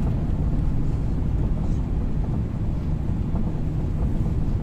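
Strong wind buffeting the microphone in gusts, a steady low rumble with little above it.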